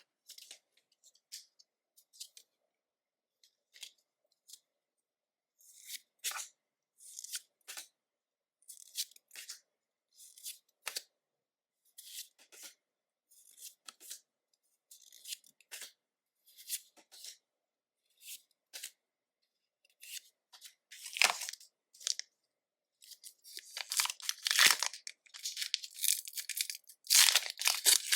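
Pokémon trading cards handled one at a time: short, soft, high swishes spaced about a second apart as cards are slid and flipped. Near the end comes a dense run of crinkling and tearing, typical of a foil booster pack wrapper being ripped open.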